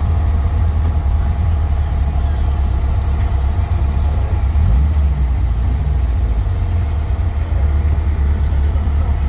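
Air-cooled Volkswagen engine running at cruising speed, heard from inside the vehicle as a steady low drone with road rumble. The drone shifts briefly about five seconds in.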